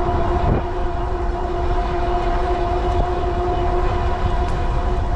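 Strong wind buffeting the microphone during an e-bike ride: a heavy, continuous rumble with a steady droning tone over it.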